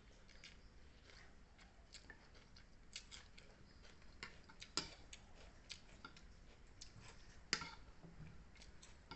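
Faint, irregular small clicks and taps, with two louder sharp clicks about five and seven and a half seconds in.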